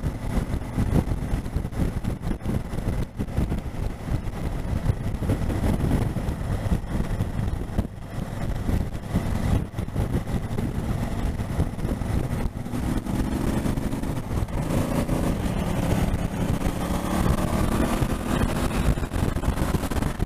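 Honda Africa Twin motorcycle on the move, heard from on the bike: steady wind rush and engine rumble. About two-thirds of the way through, the engine note climbs as the bike speeds up.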